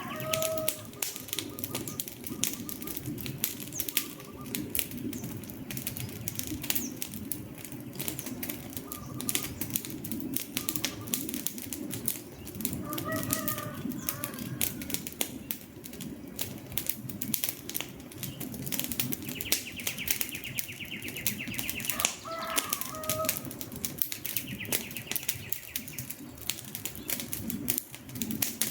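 Wood campfire crackling and popping steadily, with a low rumble of burning. A few short bird calls sound now and then, and a high buzzing trill comes twice in the second half.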